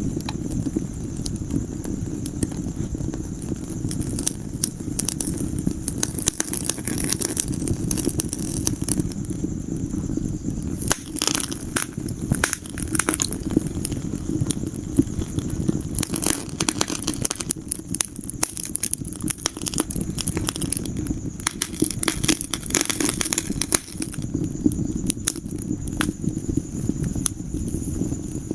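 Wood fire burning in a fireplace: irregular crackles and pops over a steady low rumble of the flames, with a faint steady hiss.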